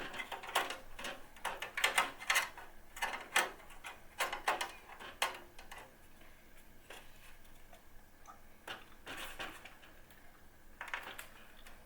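Plastic and metal clicks and knocks as a 140 mm case fan with its dust filter is pressed into the front mount of a PC case. A quick run of sharp clicks comes first, then a few more spaced out over the rest.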